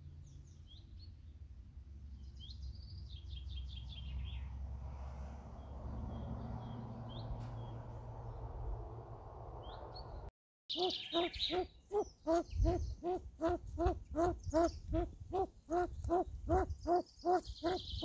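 Faint bird chirps and a short trill over a low rumble. After a sudden cut about ten seconds in comes a loud hooting call, repeated evenly about twice a second.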